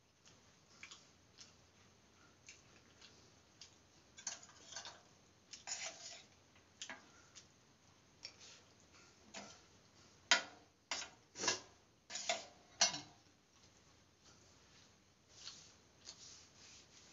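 Mouth sounds of a man eating vegetable biryani by hand: faint, irregular chewing and lip smacks, with a run of sharper smacks about ten to thirteen seconds in.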